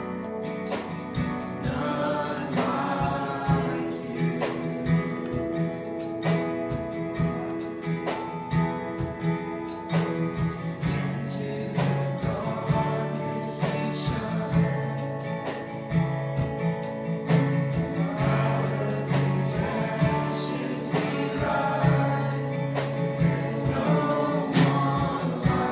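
Gospel worship music: voices singing over instruments, with a steady rhythmic beat.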